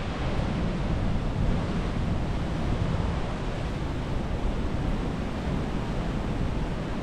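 Strong wind buffeting the microphone: a steady low rumble with hiss above it.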